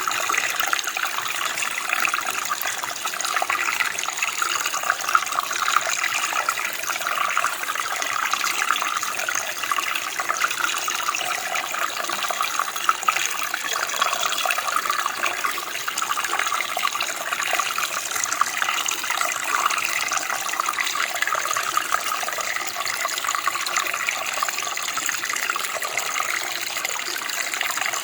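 Running water: a small stream flowing and babbling, a steady splashing rush without pause.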